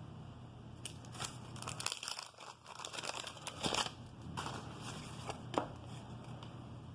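Wax-paper trading card pack crinkling and tearing as it is handled and opened, in irregular crackly bursts with a sharp click just past the middle.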